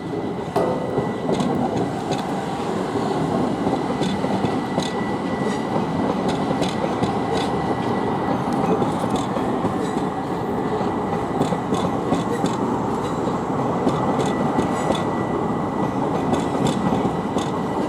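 Southern Class 377 Electrostar electric multiple unit pulling out of Victoria past close by, its wheels clicking over rail joints under a steady rumble, with a thin, steady high whine over it.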